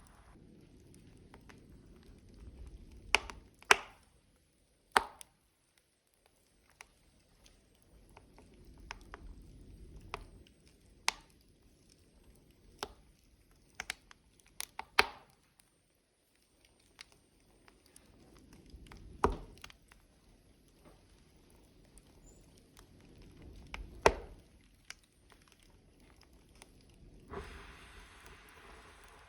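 Logs burning in a wood stove, crackling: irregular sharp pops and snaps, some much louder than others, over a soft low rush of flame that swells and fades every few seconds.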